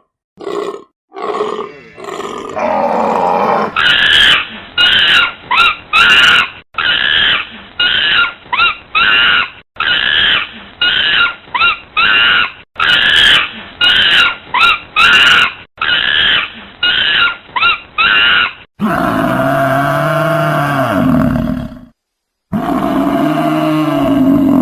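A run of different wild animal calls: short grunts, then a long series of quick repeated calls, then two long drawn-out roars whose pitch bends up and down.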